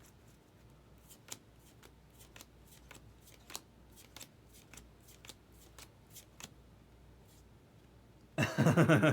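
Soft, irregular clicks and flicks of baseball cards being handled and flipped through one by one, then a short burst of speech near the end.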